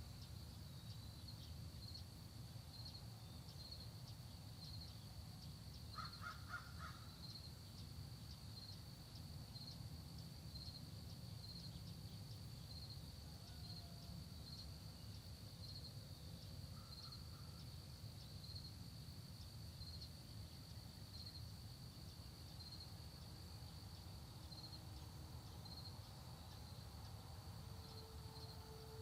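A crow caws, harshly, about six seconds in, and more faintly again a little later. Behind it, an insect keeps up a steady high trill that pulses about once a second, over a low steady rumble.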